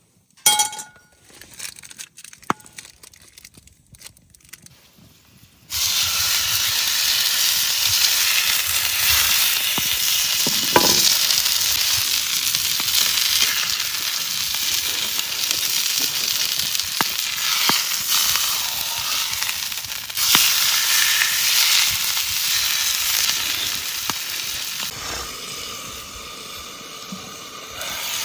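A few light clicks and knocks, then, about six seconds in, food starts sizzling loudly in a hot pan and keeps frying steadily, easing off a little near the end.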